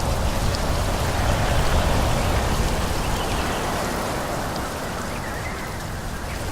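Steady rushing of wind through forest trees, swelling a little about a second and a half in and easing off in the second half.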